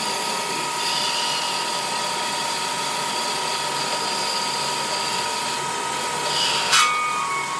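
A workshop machine or power tool running steadily, a dense mechanical rattle with a steady high whine; a sharp click near the end, after which the whine changes pitch.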